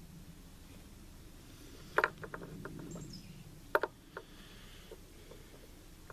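Sharp metallic clicks and taps from parts being worked on an AR-style rifle upper: a double tap with a few lighter ticks about two seconds in, then another double tap and a single one near the four-second mark.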